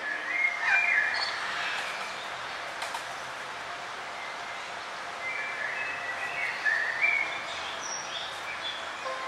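Forest birds chirping and calling over a steady background hiss, with a cluster of calls in the first second and another about five to seven seconds in.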